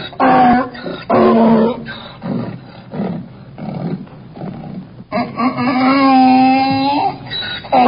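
Donkey braying: two loud calls, then a stretch of softer rhythmic wheezing breaths, then a long loud call about five seconds in.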